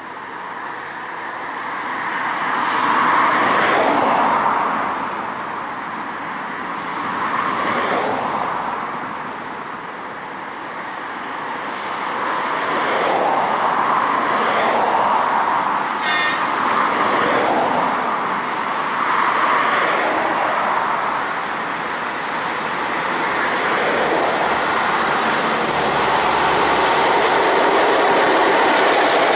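Rushing noise that swells and fades several times as a ChS7 electric locomotive with a long passenger train approaches along the line, growing louder near the end as it draws close. A short high tone sounds about halfway through.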